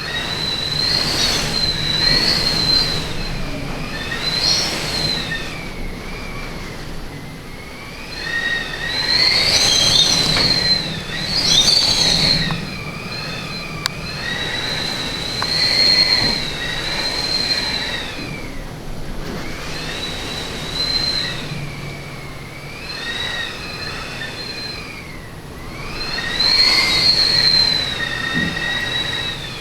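Storm wind whistling and howling in gusts. A shrill, wavering whistle swells and fades every few seconds over a rushing hiss.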